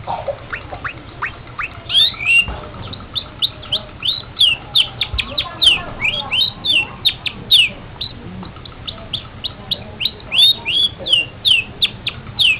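Long-tailed shrike (pentet) singing a fast chattering series of sharp, down-slurred notes, several a second, over a low steady hum.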